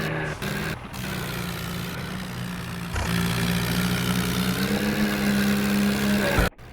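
Tractor's diesel engine running steadily, picking up a little in pitch from about three seconds in, then cut off abruptly near the end.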